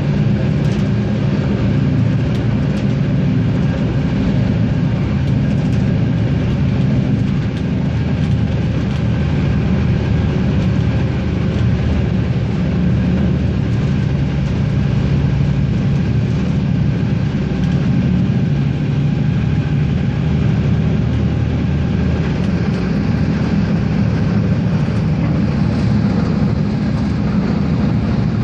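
Regio-Sprinter diesel railcar running along the line: a steady engine drone with several low tones over rolling noise.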